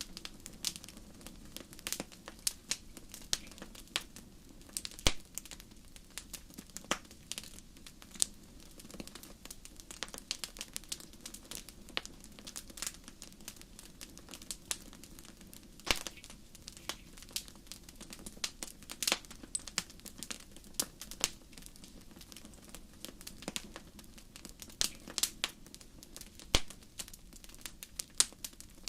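Fire crackling: irregular sharp snaps and pops over a soft, steady low background.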